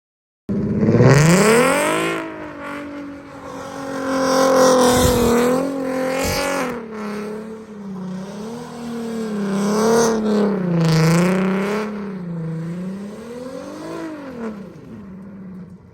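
Infiniti Q50's engine revved hard. It starts abruptly, climbs steeply in the first second, then is held high with its pitch wavering up and down again and again, and rises once more before dropping away near the end.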